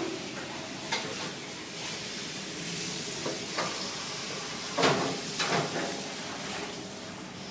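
Food sizzling as it fries in a hot pan, with several short metal knocks of a utensil against the pan; the loudest knock comes about five seconds in.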